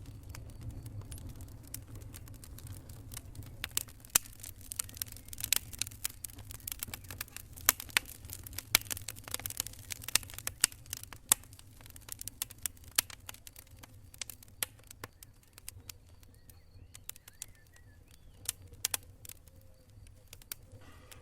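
Wood campfire crackling: irregular sharp snaps and pops, thickest around the middle and thinning out towards the end, over a low steady rumble.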